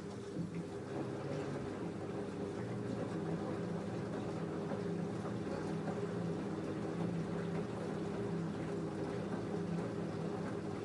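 LG F10A8HDS5 front-loading washing machine moving water: a click, then a steady hum with rushing, gurgling water that stops abruptly near the end, typical of the machine filling for, or draining from, a rinse.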